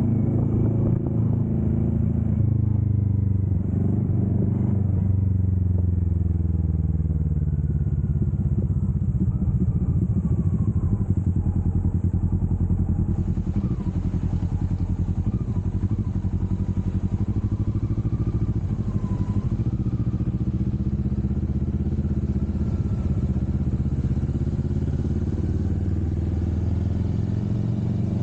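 Kawasaki Vulcan S 650's parallel-twin engine running on the move. Its pitch falls over the first several seconds as the bike slows, holds fairly steady, then rises again near the end as it picks up speed.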